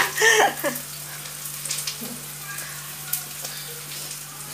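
Food frying in a pot on the stove: a steady, even sizzle, with a couple of faint clicks from a metal spoon.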